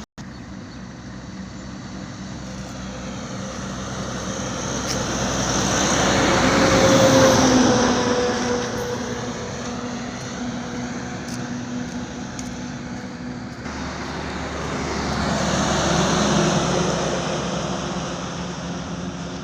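Highway traffic passing by: two vehicles go by close, the sound swelling and fading, with the first loudest about seven seconds in and the second about sixteen seconds in, over a steady hum of road noise.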